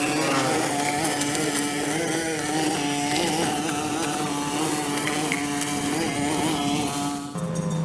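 Small engine running steadily, its pitch wavering slightly; near the end the sound changes abruptly to a lower steady tone.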